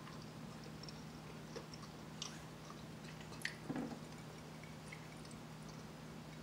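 Faint chewing and mouth sounds over a steady low hum, with a few small clicks and a couple of soft knocks a little after three seconds in.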